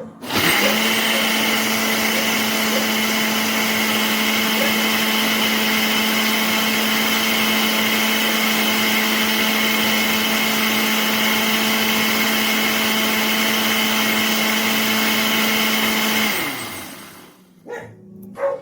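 Countertop blender motor running at one steady speed, starting abruptly and stopping about two seconds before the end as the motor winds down.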